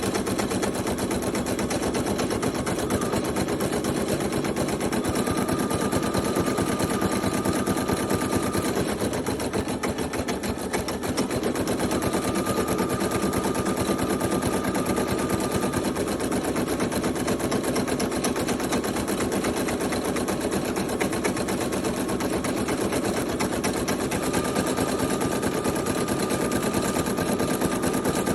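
Brother PE800 embroidery machine stitching out a design: a steady, rapid needle clatter with a thin whine that comes and goes, easing briefly about ten seconds in.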